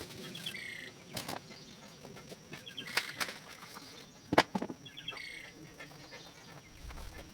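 A songbird repeating a short chirping call every couple of seconds, with a few sharp knocks or snaps in the foreground, the loudest about four and a half seconds in.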